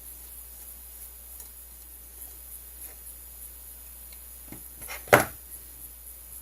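Faint small clicks and taps of parts and tools being handled on a workbench, then one sharp clack about five seconds in.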